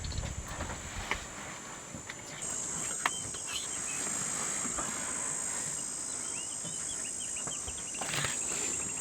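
Insects calling in a steady high-pitched drone that grows louder about two and a half seconds in, with short bird chirps over it.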